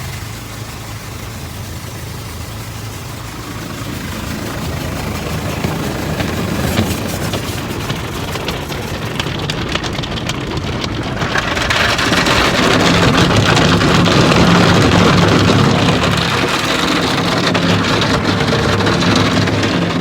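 Automatic car wash spraying water over the truck, over a steady low hum. The spray grows louder about halfway through.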